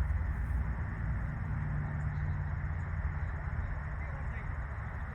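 Steady outdoor background noise: a low rumble with a faint even hiss, and no distinct events standing out.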